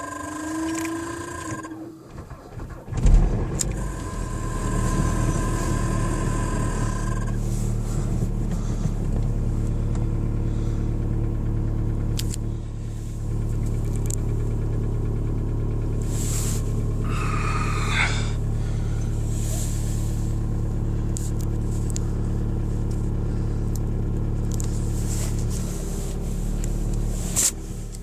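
VW Golf IV 1.9 TDI four-cylinder turbodiesel cold-starting at −16 °C: a steady whine, then the engine catches with a loud clatter about three seconds in and settles into a steady cold idle.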